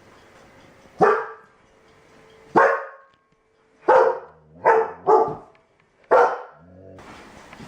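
A dog barking six times in single barks about a second apart, two of them in quick succession a little past the middle.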